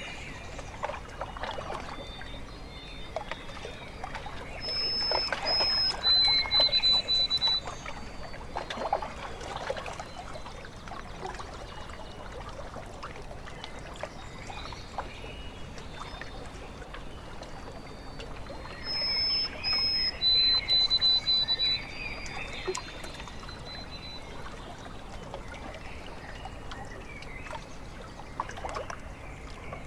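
Small waves lapping and trickling at a lake shore, with a songbird singing a short phrase of high whistled notes twice, about five seconds in and again about nineteen seconds in.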